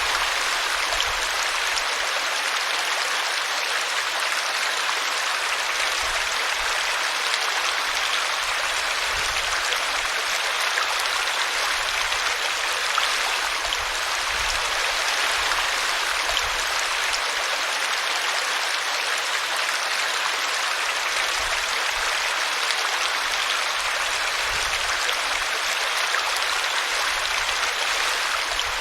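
Steady rushing of flowing stream water, an even hiss with no pauses.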